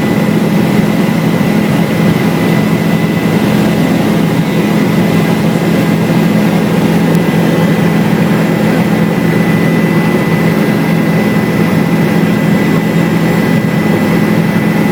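Helicopter in flight heard from inside: a loud, steady drone of rotor and engine with a thin, constant high whine over it.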